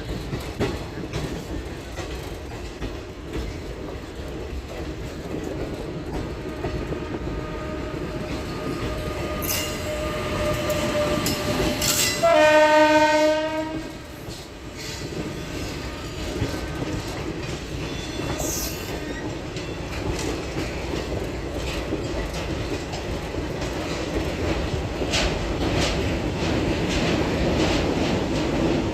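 Indian Railways passenger train running with a steady rumble of wheels on the track. Its horn sounds once, loud, for about a second and a half near the middle.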